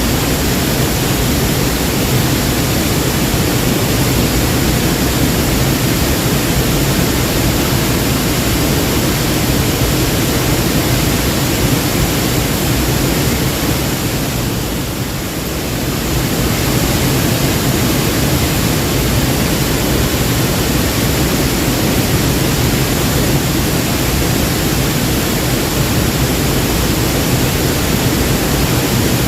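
Waterfall: a steady, loud rush of falling water that dips slightly for a moment about halfway through.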